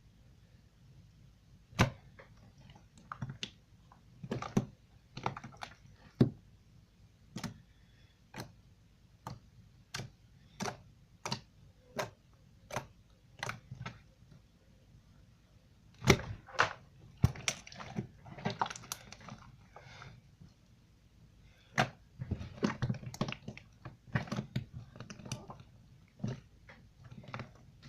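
Sand slime being poked and pressed by fingers, giving sharp, irregular clicks about once a second. In the second half there are two stretches of denser crackling.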